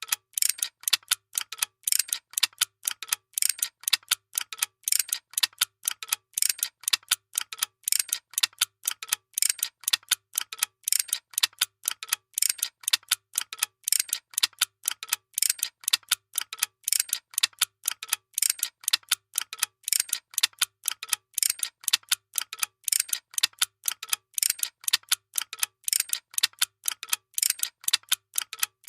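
Workshop machinery running in a steady mechanical rhythm: sharp, clacking clicks at about five a second, never letting up, with a faint low hum pulsing under them about once a second.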